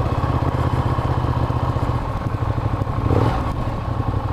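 Ducati Diavel's L-twin engine running at low revs with a lumpy, pulsing beat as the bike is ridden slowly. There is a brief louder patch about three seconds in.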